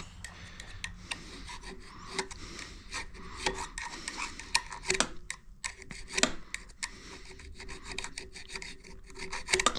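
Metal scraping in short, irregular strokes as the key groove (keyway) on a motor shaft is cleaned out, over a faint steady hum.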